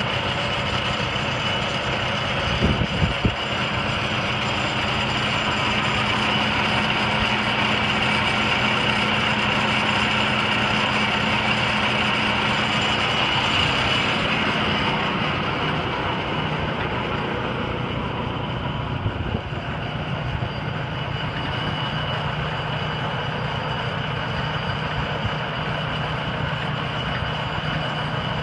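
Morbark wood chipper running hard as a whole pine tree is winched in and fed through, with a few sharp knocks about three seconds in. About halfway through the engine note drops and the high hiss fades.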